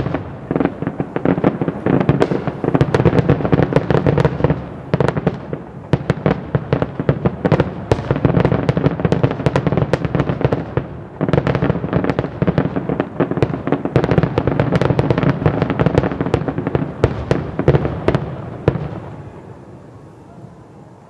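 Fireworks show: a dense, rapid barrage of shell bursts and crackling that stops near the end and dies away.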